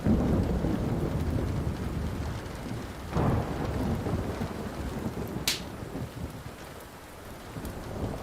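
Thunder rumbling over steady rain: a loud peal breaks in at the start and a second surge comes about three seconds in, both dying away slowly. About five and a half seconds in, a single sharp pop from the crackling wood fire.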